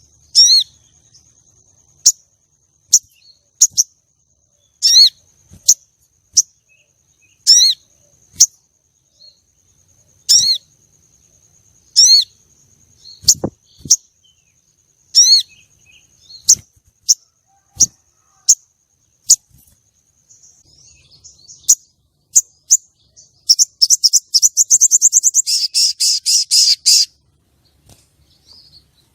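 Female sogon (crested jay) calling: short sharp chirps repeated every second or two, then a fast dry rattle lasting about three and a half seconds near the end. These are the female calls used to provoke and lure male sogon.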